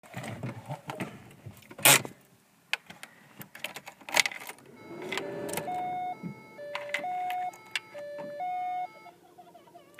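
A few clicks and knocks of handling, then a two-note electronic chime, low note then high, that sounds three times in a row: the car's warning chime as the key is turned before starting.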